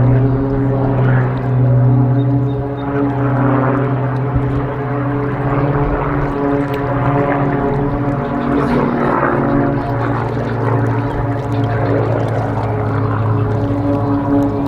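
Propeller aircraft flying in formation, a loud steady engine drone whose pitch shifts slightly as the planes manoeuvre.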